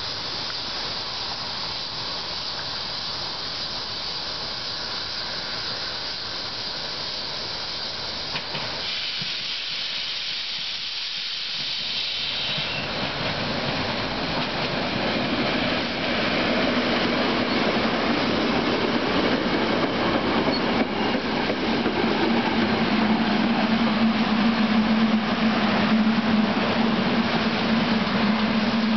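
SEPTA electric push-pull commuter train, Comet II coaches with an AEM7 locomotive pushing at the rear, arriving into the station and rolling past along the platform. The rush of the train grows louder as it nears, and from about halfway in a steady low hum joins it, strengthening as the coaches pass.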